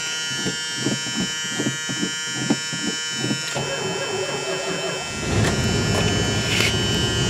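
The 1977 Dodge Monaco Crestwood wagon's warning buzzer sounds steadily with the key on, over soft regular knocks at about two and a half a second. About five seconds in, the factory 360 V8 starts and runs with a low rumble.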